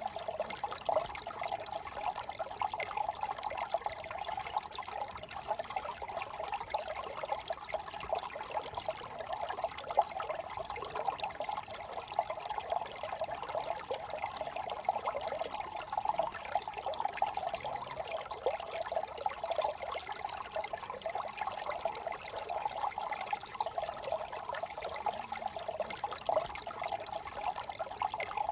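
Small brook trickling and babbling steadily, a continuous gurgle of running water with no pauses.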